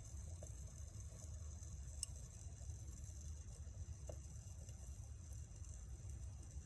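Wood campfire burning with faint crackling and scattered small pops, one sharper pop about two seconds in, over a steady low rumble.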